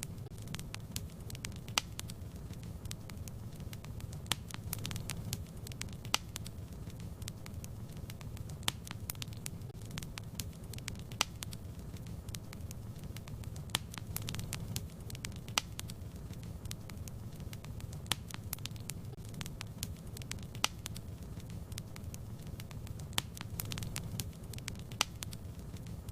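Fireplace fire crackling: many sharp, irregular pops over a steady low rumble.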